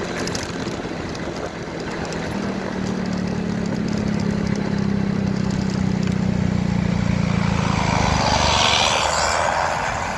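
Motorcycle engine running on the road with wind and road noise, its pitch stepping up a little about two seconds in. A louder rushing noise swells near the end.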